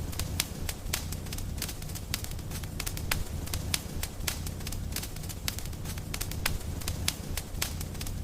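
Wood fire burning in a fireplace, crackling with many irregular sharp pops and snaps, several a second, over a low steady rumble.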